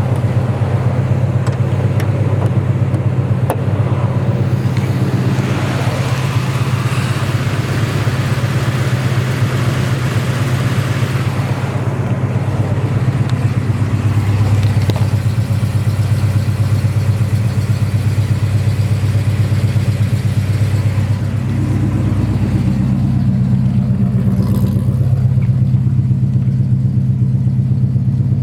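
Oldsmobile Rocket 350 V8 idling steadily through long-tube headers and Flowmaster mufflers, a deep even exhaust note; the low note grows deeper about two-thirds of the way through.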